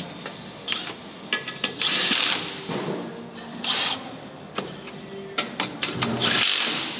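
Three short bursts of a power tool, with clinks and knocks of metal parts between them.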